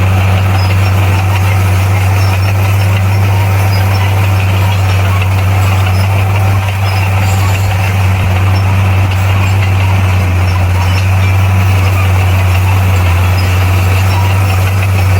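Bulldozer's diesel engine running steadily, a deep, unchanging drone throughout.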